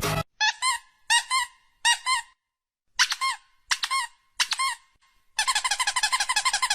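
Short, high squeaks in pairs and small groups, each rising and falling slightly in pitch. Near the end they come in a fast run of about ten a second.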